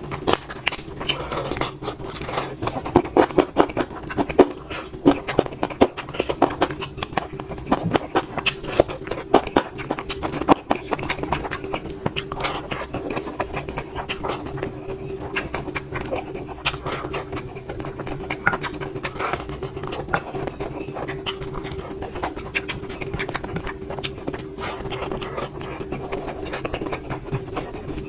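Close-up eating sounds: wet chewing and lip-smacking, with dense irregular clicks. A steady low hum sits underneath throughout.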